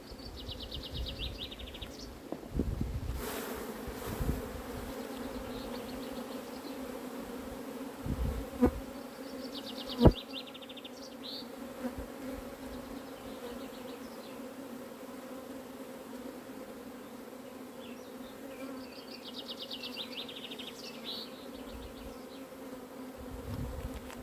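Honeybees from an opened, crowded hive buzzing in a steady hum. Two sharp knocks come a little before the middle.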